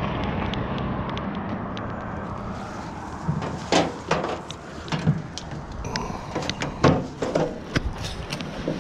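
A vehicle running with a steady low rumble, then from about three seconds in a string of sharp, irregular knocks and clanks.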